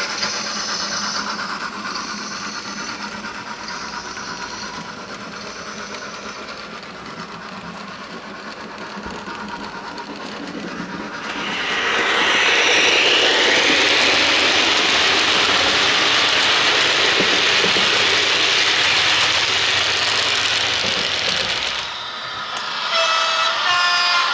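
HO-scale model train running on a layout's track, much louder from about eleven seconds in until about twenty-two seconds. A short horn sound follows near the end.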